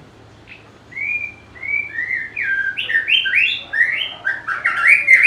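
White-rumped shama singing: about a second in, a phrase of clear, varied whistled notes begins, coming faster and louder toward the end.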